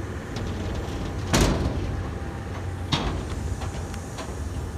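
Two loud clanks about a second and a half apart over a steady low rumble, with light ticks in between.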